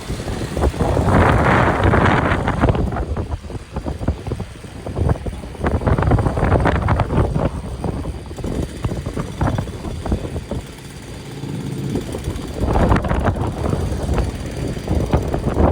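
Cable-hauled tramcar of the Great Orme Tramway running on its track: a low rumble with frequent rattles and knocks. Gusts of wind hit the microphone about a second in and again near the end.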